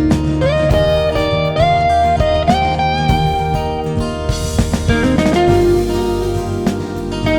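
1979 Greco SV-800 semi-hollow electric guitar playing a single-note melodic line, with sustained notes and several slides up into the next note.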